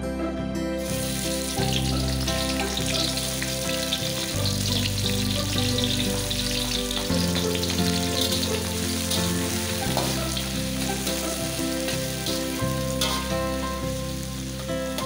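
Sliced shallots and garlic sizzling in hot oil in a wok while being stir-fried; the sizzle starts abruptly just under a second in. Soft background music plays underneath.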